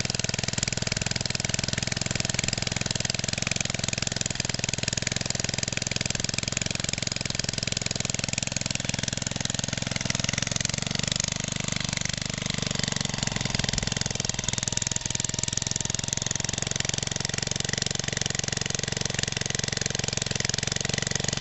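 Small 1969 Briggs & Stratton single-cylinder engine on a water pump, running steadily at an even speed.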